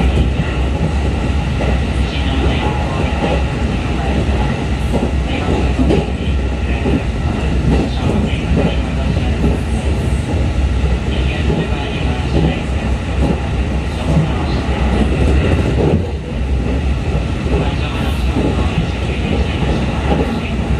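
Running noise inside a JR 211 series electric train car: a steady low rumble of wheels on rail, with frequent clicks and rattles from the track and car body. It goes briefly quieter about sixteen seconds in.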